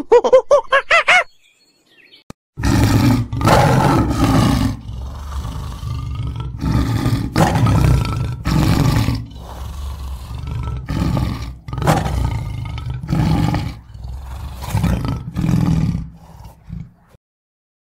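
A tiger roaring, a long run of over a dozen short, deep roars about a second apart, starting about two and a half seconds in and stopping near the end. Before it, a bird's honking call cuts off about a second in.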